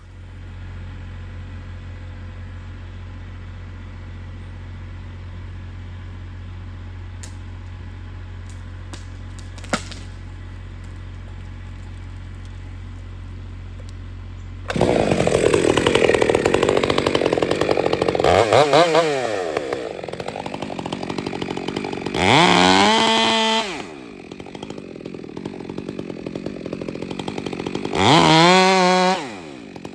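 A low steady engine hum for about the first half, then a chainsaw starts running loud about halfway in, cutting into a cedar trunk for a felling cut and revving up and back down three times.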